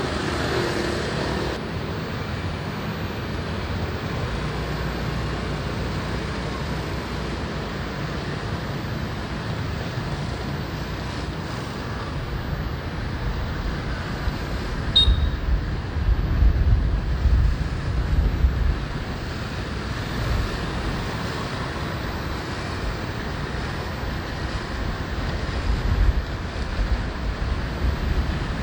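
Wind rushing over the microphone on a moving motorbike, with road and traffic noise underneath; the low buffeting grows stronger in gusts about halfway through and again near the end.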